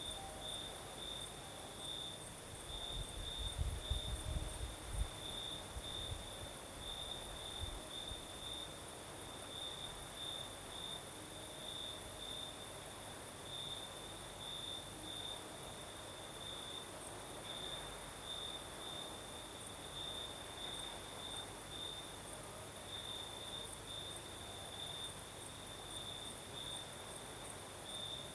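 Crickets singing at night: one cricket's pulsed chirping repeats steadily over a higher, continuous hiss of other insects. A brief low rumble of breeze on the microphone comes about three to five seconds in.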